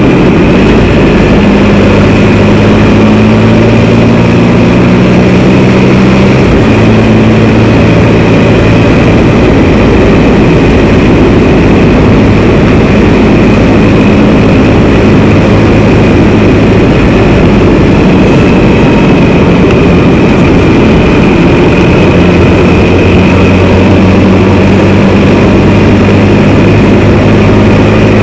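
Can-Am Spyder three-wheeled motorcycle running along the road, engine and road noise loud and steady. The engine note shifts pitch a few times, around 6 and 10 seconds in.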